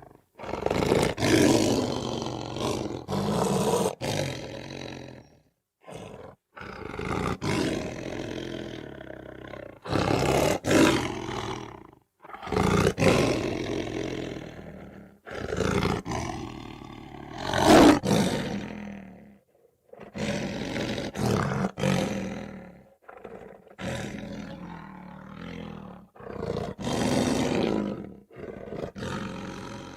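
Lion roaring, a series of long roars and growls with short silent breaks between them, several cutting off abruptly.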